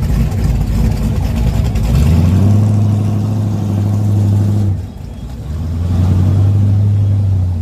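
A pickup truck's engine revved up and held at a steady high speed for a couple of seconds, dropping back to idle, then revved and held again.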